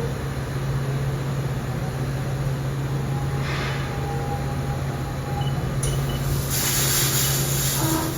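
Haas VF2 CNC vertical mill running a 10 mm end mill to cut indexing flats on a pump shaft: a steady machine hum under a hiss, with a louder, bright hiss setting in about six seconds in.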